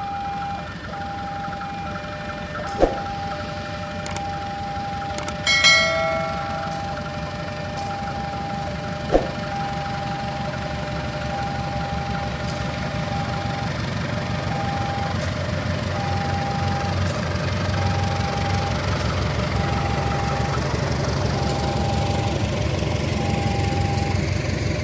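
Railway level-crossing warning signal sounding a repeating tone about once a second, while a low rumble builds through the second half as a train approaches. A short horn blast sounds about five seconds in, and there are two sharp clicks.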